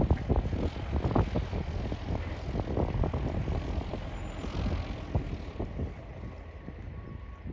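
Small propeller airplane's engine running and fading away toward the end, with wind buffeting the microphone in gusts.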